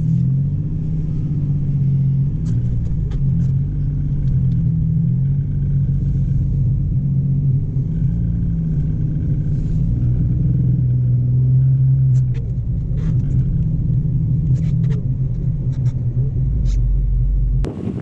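Lifted Ford Ranger pickup driving on a snowy road, its engine and exhaust running at a steady cruise with a low drone that rises and falls gently in pitch. Faint scattered ticks sound over it.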